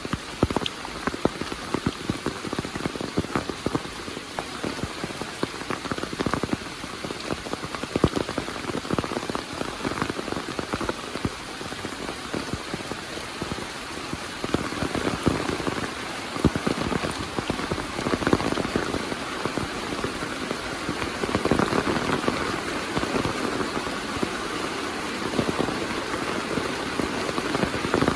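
Heavy rain falling steadily, with a dense patter of sharp drop impacts close by, a little louder in the second half.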